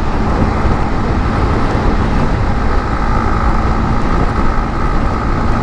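Steady wind rush on the microphone over a 150cc motorcycle riding at speed, its engine a faint steady drone underneath.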